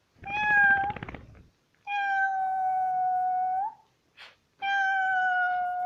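Dog howling: a short rough cry, then two long, high howls, the last sinking slowly in pitch.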